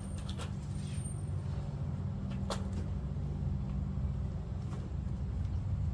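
Steady low engine hum, like a vehicle idling, with a few sharp clicks or snaps over it, the clearest about two and a half seconds in.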